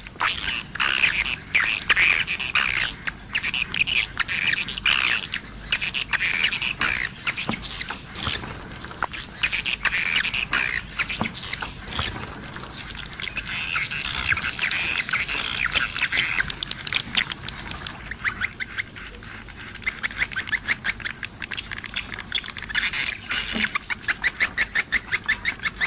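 Swiftlets twittering in a dense chorus of high chirps. Near the end the chorus turns into a run of rapid, evenly spaced chirping pulses.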